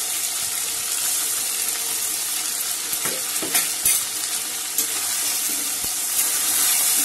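Ground spice pastes, potatoes and tomato sizzling in hot oil in a metal kadai while a flat metal spatula stirs and scrapes them. A few sharp knocks of metal utensils against the pan come about three to five seconds in.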